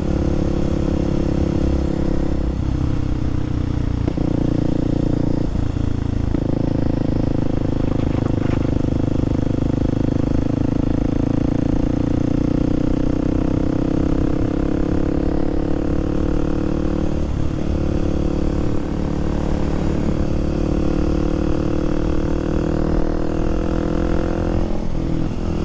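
Kawasaki KLX300SM supermoto's single-cylinder four-stroke engine running steadily on the move, with a few short breaks in the engine note as gears are shifted: several a few seconds in and more near the end. Wind rumbles on the helmet microphone beneath it.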